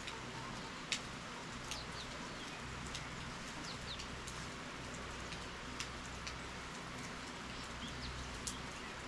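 Steady rainfall hiss with the occasional louder drip or drop striking a surface. A few short, high bird chirps come through at times.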